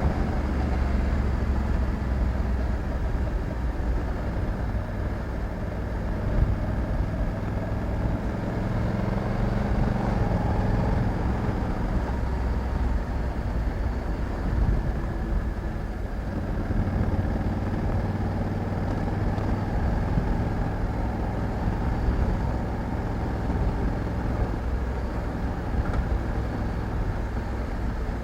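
Honda Africa Twin 1100 DCT motorcycle's parallel-twin engine running on the move, a steady low engine note that eases off around the middle and picks up again.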